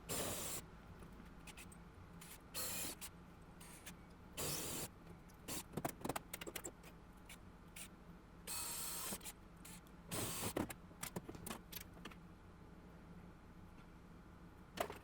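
Intermittent short bursts of metalwork noise, scraping and knocking on the car's steel body as the spot-welded rear panel is worked loose, over a faint steady hum.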